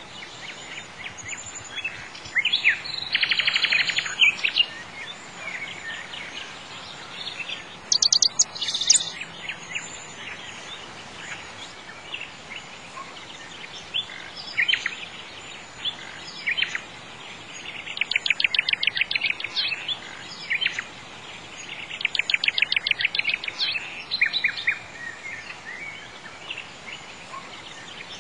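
Birds singing: scattered chirps and several rapid trills, the trills strongest about three seconds in and again around eighteen and twenty-two seconds, over a steady background hiss.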